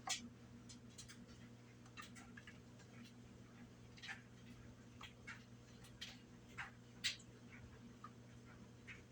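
Near silence: faint, irregular light clicks and ticks, about one or two a second, over a low steady hum.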